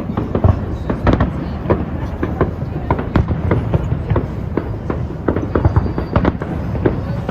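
Aerial fireworks exploding in a display: many sharp bangs and crackles in quick, irregular succession, several a second, over a low rumble.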